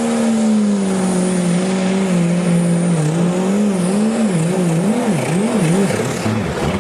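Pulling tractor's engine running hard at high revs, its pitch sagging slowly and then surging up and down several times in quick swings toward the end.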